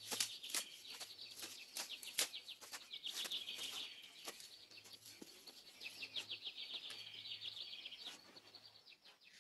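Faint birdsong: small birds chirping and trilling, with a fast run of trilled notes about two-thirds of the way through and scattered sharp clicks.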